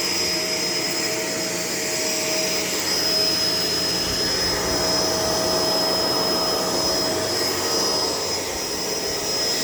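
Shark LA702 vacuum cleaner running steadily, its motor giving a constant rushing noise with a high, steady whine on top.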